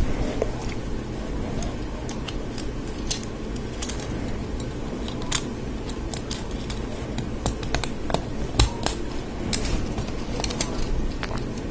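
Hard plastic Lego Technic parts being handled and snapped together: irregular sharp clicks and small taps as pins and pieces are pressed into place, over a steady low hum.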